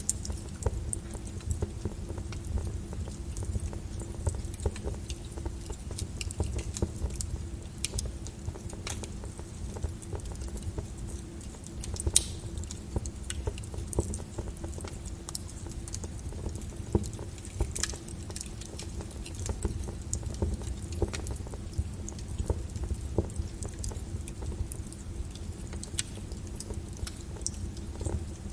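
Fireplace crackling with many irregular sharp pops, the loudest about 12 seconds in, over a steady low rumble and the patter of rain on a window.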